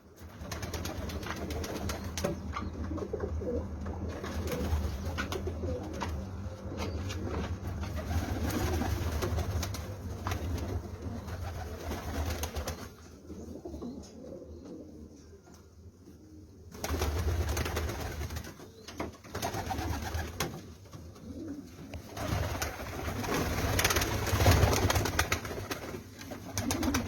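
Domestic pigeons cooing, with calls coming and going over a steady low rumble and a quieter spell about halfway through.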